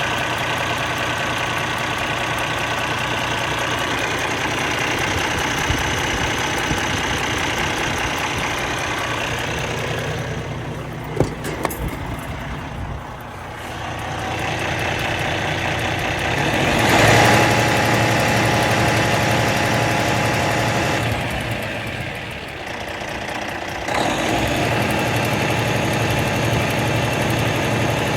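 A car engine idling with a clicking noise from the valvetrain, which the owner puts down to a bad camshaft. The engine sound swells and fades a couple of times, with a few sharp knocks about eleven seconds in.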